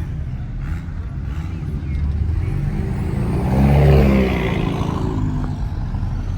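A car drives past under power, its engine note swelling to its loudest about four seconds in and then easing off.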